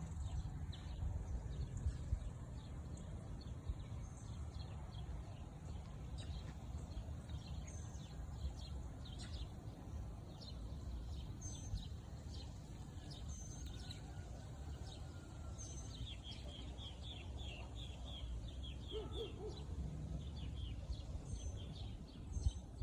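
Small birds chirping and calling, with short high notes throughout and a quick run of notes past the middle, over a steady low rumble.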